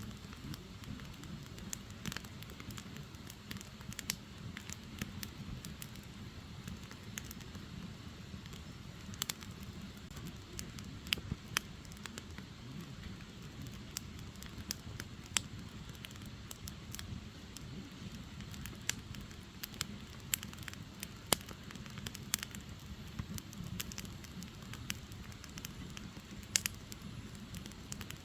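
Firewood burning: a steady low rush of flame under irregular sharp crackles and pops, a handful of them louder than the rest.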